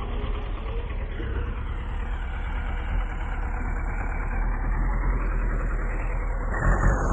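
Bulldozer's diesel engine running steadily. Near the end the sound changes abruptly and gets somewhat louder.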